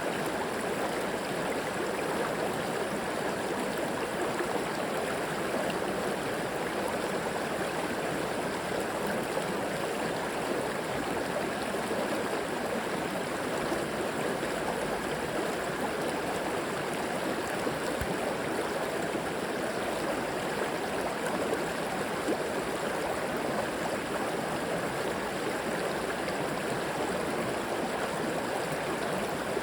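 River water flowing steadily over rocks, a continuous rushing and gurgling with no change in level.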